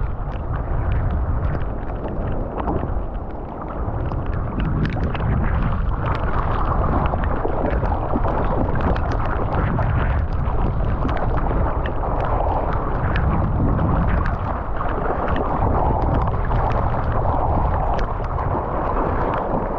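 Strong wind buffeting the GoPro Hero 9's microphone with a steady low rumble, over continual splashing and sloshing of sea water.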